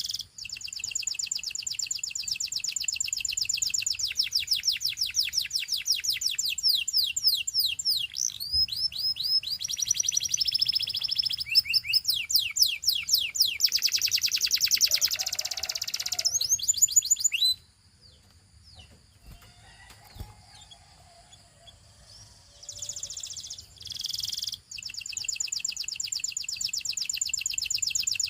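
Gloster canary singing long runs of rapid, high trilled notes, moving from one trill to the next. The song breaks off for about five seconds past the middle, then starts again.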